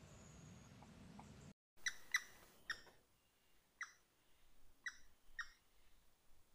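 A small bird calling: six short, sharp chirps that slide downward, at uneven intervals. Before them a faint low background rumble cuts off abruptly about a second and a half in.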